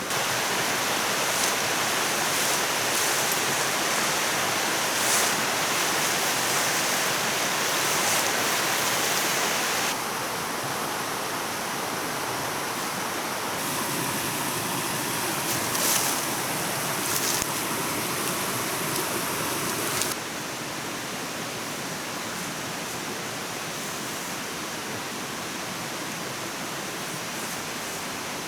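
Steady rush of flowing water, its level and tone changing abruptly three times, with a few faint ticks.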